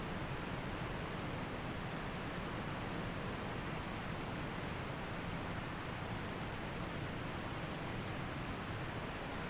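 Waterfall and mountain creek rushing: a steady, unbroken roar of falling and flowing water.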